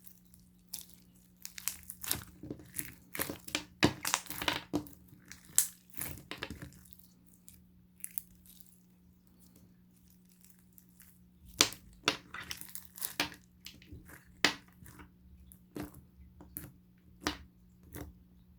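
Slime with crunchy toppings being pressed and squeezed by hand, giving clusters of sharp crackles and crunches in two spells with a quiet pause in the middle.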